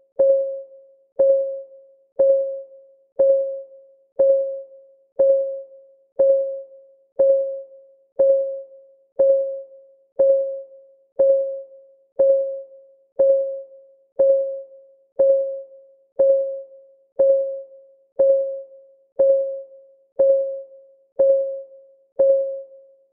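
Clock ticking about once a second, each tick a short, clear, pitched click that dies away quickly.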